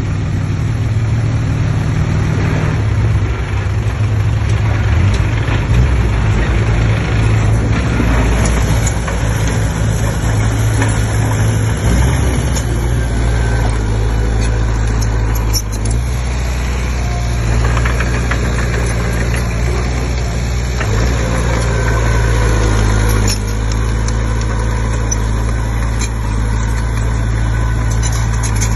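Diesel engine of a Komatsu D20P crawler bulldozer running steadily, its low engine note shifting a few times.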